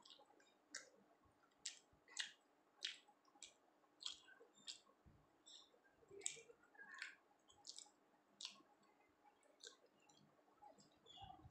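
A person chewing soft, moist food, paratha with cholar dal, with short wet mouth clicks and smacks, about one or two a second.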